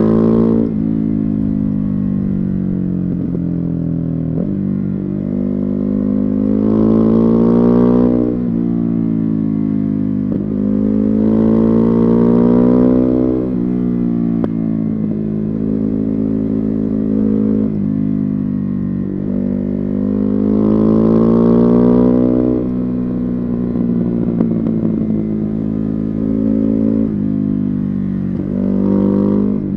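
Ducati Hypermotard 950's 937 cc Testastretta 11° V-twin through a Termignoni exhaust, heard from onboard while riding. The engine pulls up in pitch and grows louder three times under throttle, falling back in pitch between the pulls.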